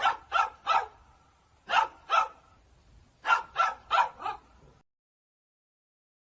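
A dog barking in short sharp barks, in three bursts: three barks, then two, then four. The sound cuts off abruptly to dead silence about three-quarters of the way through.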